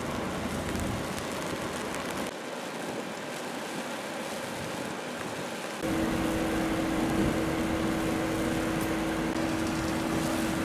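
Outdoor ambience of steady rain on wet paving. About halfway through it gets louder and a steady low hum joins in.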